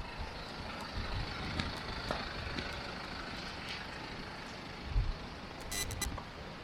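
Street ambience with a steady low traffic rumble that swells briefly about five seconds in, and a short cluster of sharp clicks just after.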